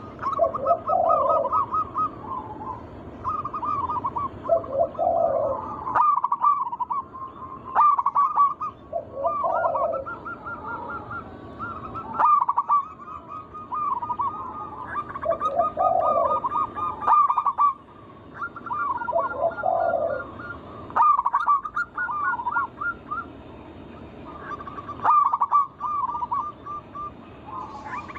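Zebra doves cooing in repeated rolling, staccato phrases. Several phrases overlap, with lower, rounder notes recurring every few seconds.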